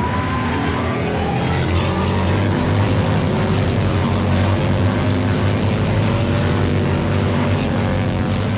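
Steady engine drone, running evenly without clear revving or pass-bys.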